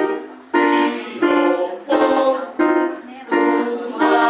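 Choir singing a phrase of a song as a run of separate held notes, with short breaks between them.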